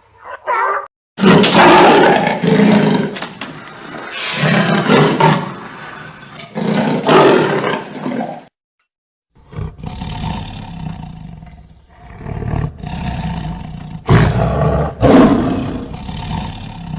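Big cat roaring: a series of loud, rough calls, broken by a short silence about nine seconds in, after which the calls go on.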